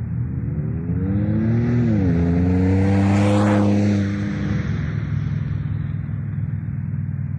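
Ford F-150's 3.5 EcoBoost twin-turbo V6 through a Flowmaster FlowFX exhaust, accelerating past. The engine note climbs, drops with an upshift about two seconds in, then holds as the truck passes close at its loudest and fades away.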